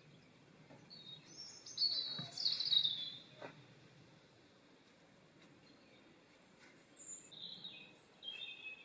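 Wild songbird singing: a burst of high chirping notes in the first few seconds and a shorter phrase near the end.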